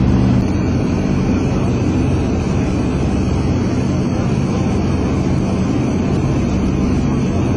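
Four Wright R-3350 radial piston engines of a Lockheed EC-121K Super Constellation running steadily, a continuous low droning hum of the propeller aircraft.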